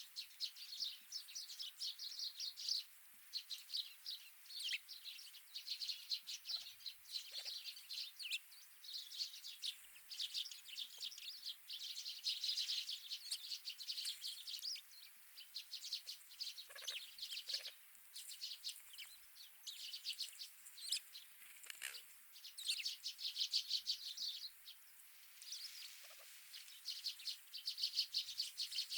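Many small wild birds chirping and twittering at once in a fast, continuous chatter, with only brief lulls.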